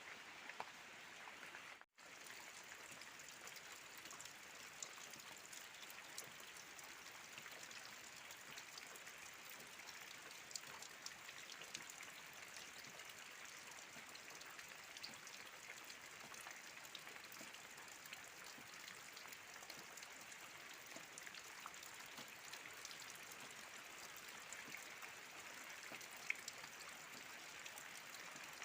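Rain falling steadily and faintly: an even hiss with scattered sharper drop hits, broken by a brief dropout about two seconds in.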